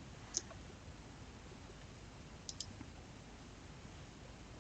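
Computer mouse clicks over faint hiss: a single click about half a second in, then a quick double click about two and a half seconds in.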